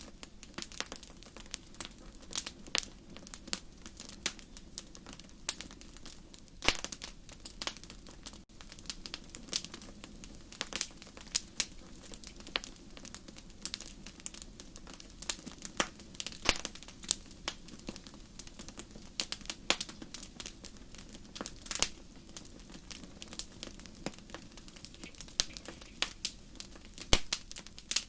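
Wood fire burning in a fireplace: irregular sharp crackles and pops, a few louder snaps standing out, over a steady low hiss of the flames.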